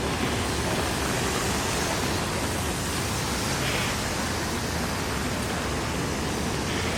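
Steady, even hiss of heavy rain falling on a city street, with a brief louder swish a little past halfway.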